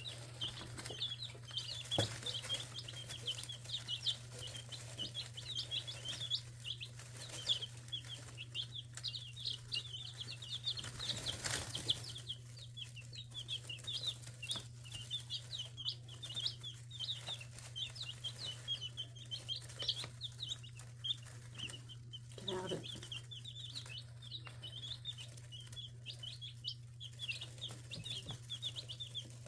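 Chicks peeping rapidly and without a break. About two-thirds of the way through, the mother hen gives one low, falling call. A steady low hum runs underneath.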